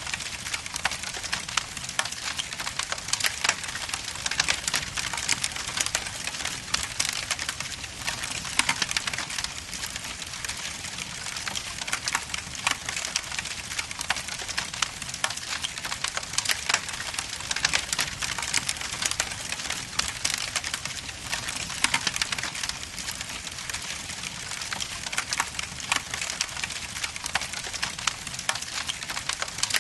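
Wood logs burning in a fireplace, crackling steadily with many dense small pops and snaps over a soft hiss.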